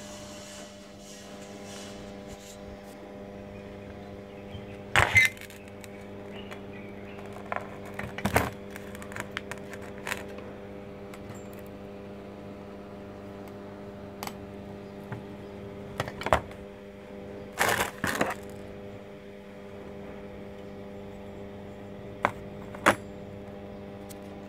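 Metal parts and hand tools being handled during exhaust-pipe work: scattered sharp clanks and knocks, several close together near the middle, over a steady electrical hum.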